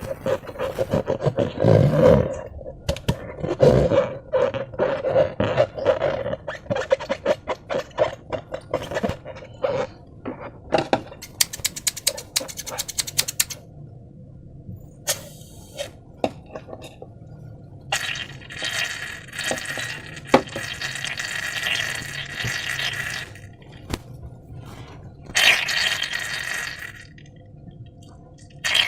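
Slime being worked by hand with balloons: wet, sticky squelching and crackling clicks, then two longer stretches of hissing, rushing noise later on.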